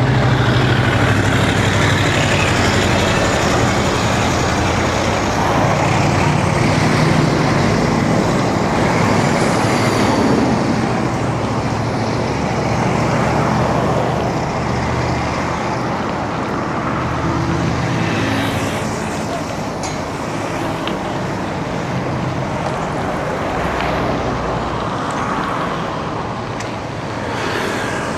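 Road traffic heard from the roadside of a busy street: motor vehicle engines running and passing, over a steady rush of road noise. The low engine hum is strongest in the first half and eases somewhat later on.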